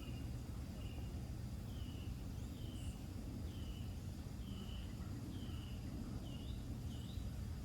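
A bird calling outdoors with a short slurred note repeated about once a second, over a steady low rumble.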